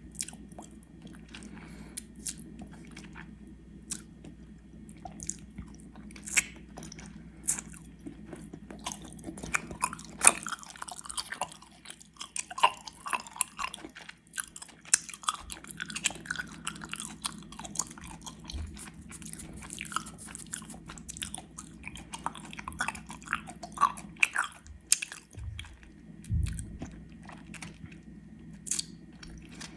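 Close-miked chewing of gummy worms: sticky, wet mouth sounds with irregular clicks and smacks of the jaw working the sweets.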